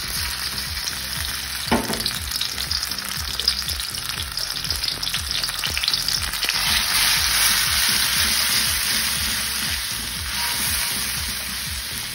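Ground shallot, garlic and curly chili paste sizzling steadily in hot oil in a wok, with a short knock about two seconds in. Near the end it is stirred with a silicone spatula.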